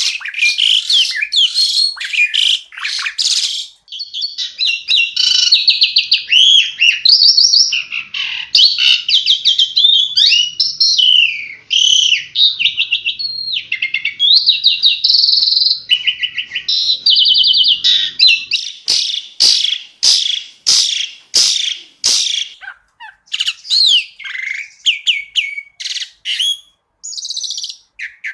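Asian pied starling (jalak suren) singing a long, loud, varied song of whistles, trills and chattering phrases, with a run of sharp clicking notes about two-thirds of the way through.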